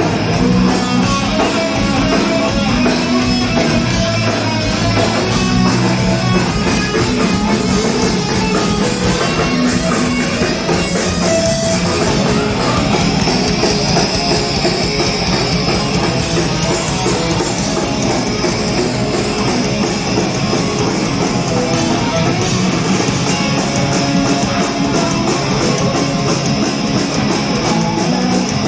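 Rock band playing live, loud and steady, with electric guitar and a drum kit.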